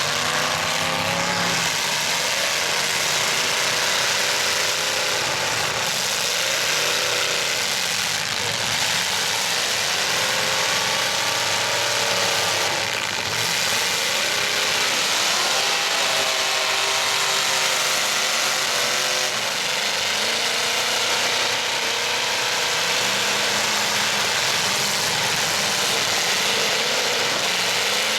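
Several pickup truck engines running at once, each revving up and down in overlapping, rising and falling pitches.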